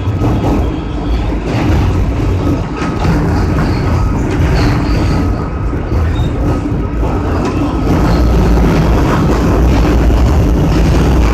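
Ride noise inside an R160 New York City subway car under way: a steady, loud rumble of wheels on track, growing louder about eight seconds in.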